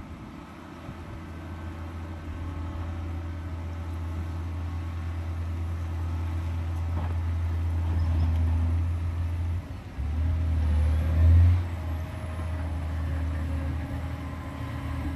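John Deere 670 GP motor grader's diesel engine running with a steady low drone, briefly surging about three quarters of the way through.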